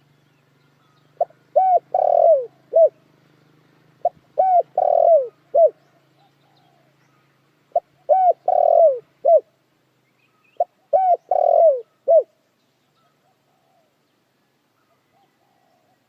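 Spotted dove cooing: four phrases, each a quick run of short coos around one longer, falling coo, repeated about every three seconds.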